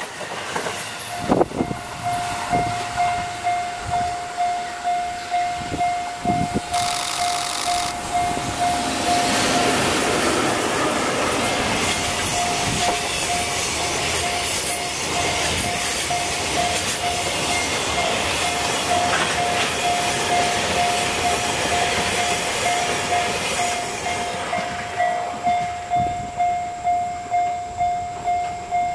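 Container freight train hauled by EF65 2083, a JR electric locomotive, running past, a long stretch of wheel and rail noise with clattering over rail joints, loudest in the middle and dying away near the end. A level-crossing warning bell rings all through, about one and a half strikes a second, heard most clearly before and after the train.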